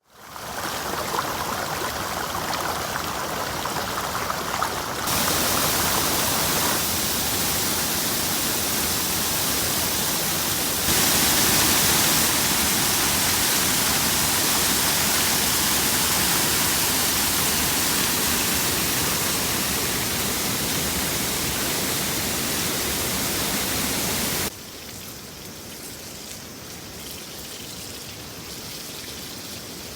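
A river's shallow water running steadily over stones, a continuous rushing murmur. Its level and tone jump abruptly about 5, 11 and 25 seconds in, and it is softer after the last change.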